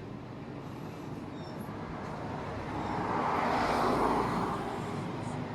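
A road vehicle passing, its noise swelling to its loudest about four seconds in, then easing slightly.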